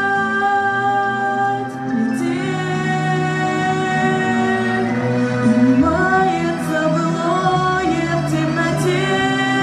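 A woman singing long held notes of a slow ballad, the notes sliding slowly from one pitch to the next, over steady instrumental accompaniment.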